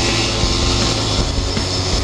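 Agrale 27.5 two-stroke motorcycle engine running steadily under way, with wind and road noise on the microphone.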